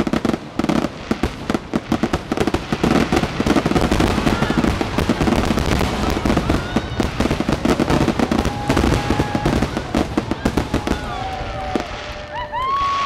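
Fireworks display going off in rapid succession: a dense, continuous run of bangs and crackling reports.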